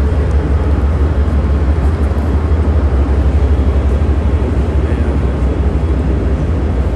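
Steady low rumble with a constant noisy hiss inside a Siemens Venture passenger railcar.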